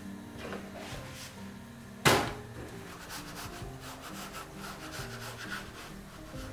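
Soft background music with steady held notes, under kitchen handling sounds: one sharp knock about two seconds in, then light scraping and ticking.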